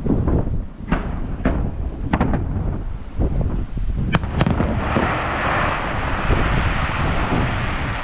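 Fireworks display: a run of shell bursts booming one after another, two sharp cracks about four seconds in, then a dense spell of crackling from about five seconds on.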